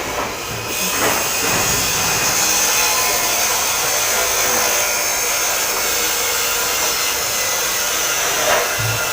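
Steady rushing, hissing noise of blowing air, starting about a second in and holding steady.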